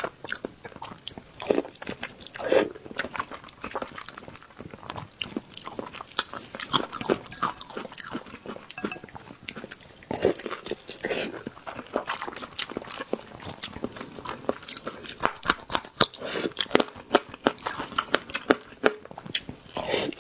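Close-miked eating sounds: a person biting and chewing chunks of braised meat in chili sauce, with many short mouth clicks and smacks that come thickest in the last five seconds.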